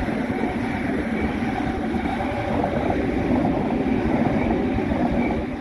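Double-deck electric passenger train passing close by: a steady rumble and rush of wheels on rail that grows a little louder toward the end.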